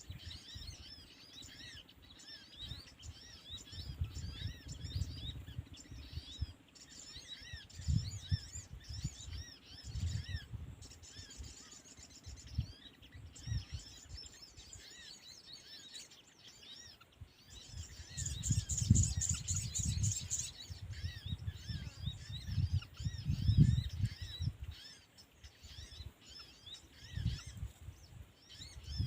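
Small birds chirping with rapid, repeated high calls, busiest past the middle, over low rumbling noise that comes and goes in gusts.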